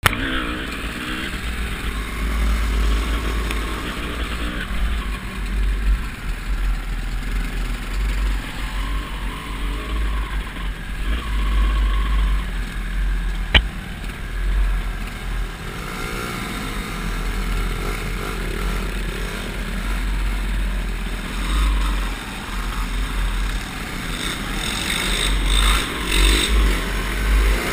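Honda CR250 two-stroke single-cylinder dirt bike engine running and revving up and down while riding off-road, heard from a helmet-mounted GoPro with a heavy low rumble. One sharp knock about halfway through.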